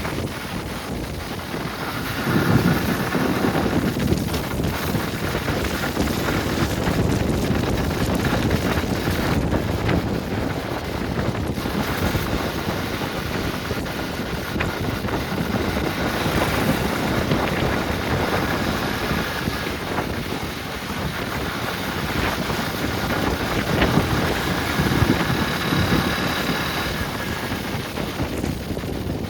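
Wind buffeting the microphone over a steady wash of outdoor noise.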